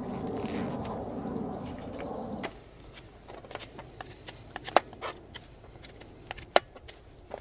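A steady rushing noise cuts off abruptly about two and a half seconds in. Scattered sharp pops and crackles follow from cooking over a wood campfire, two of them louder than the rest.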